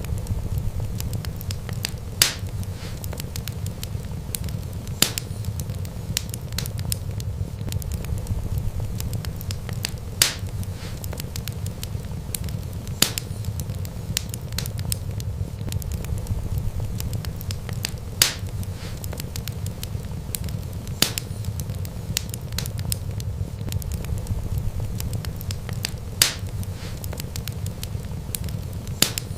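Wood fire burning with a steady low rumble of flames and constant small crackles, broken by sharp loud pops every few seconds, about eight in all.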